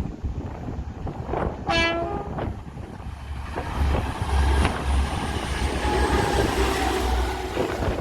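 A short single blast of a train horn, then a diesel multiple unit passing with a growing low rumble and the clatter of wheels on the rails.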